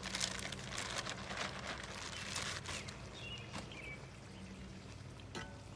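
Irregular crackling and popping from a cast iron skillet of beef tips, noodles and brown sauce cooking over a campfire. The pops are thick for the first few seconds and then thin out, over a faint steady low hum.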